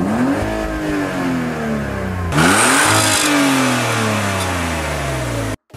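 A car engine revved twice, each time climbing quickly and then winding slowly back down. The second rev, about two seconds in, peaks with a harsher rasp. The sound cuts off abruptly just before the end.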